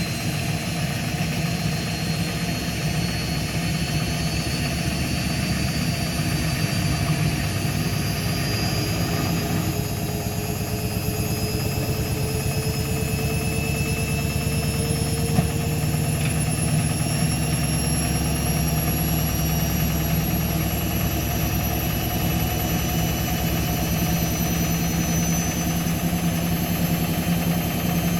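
Indesit MTSWA 61053 W washing machine in its spin cycle, the drum speeding up toward its 1000 rpm spin. The motor's whine climbs slowly in pitch over a steady low hum.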